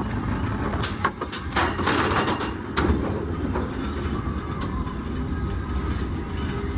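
Expedition Everest roller coaster train running on its track: a steady low rumble with a run of clattering knocks in the first few seconds.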